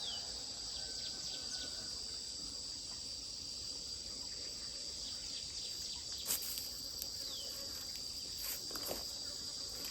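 Insects trilling in a steady, high-pitched drone, with two short falling chirps and a few faint clicks over it.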